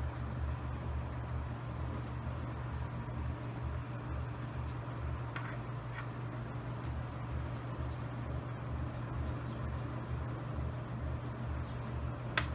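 Steady low hum, with a few faint brief clicks about five and six seconds in and again near the end.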